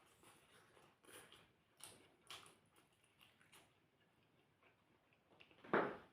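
Faint eating sounds of someone chewing a mouthful of rice and chicken curry: soft scattered clicks and wet mouth noises, with one louder smack near the end.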